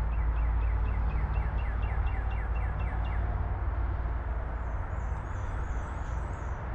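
A songbird singing a quick run of repeated down-slurred notes, about four or five a second, for the first three seconds, with a fainter, higher chittering near the end, over a steady low rumble.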